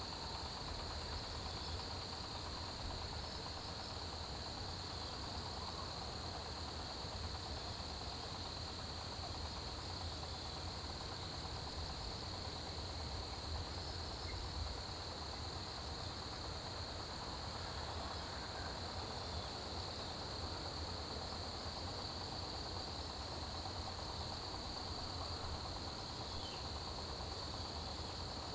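Autumn grass insects, crickets among them, singing in a steady chorus: a continuous high trill with an evenly pulsed, even higher chirping over it, and a low steady rumble underneath.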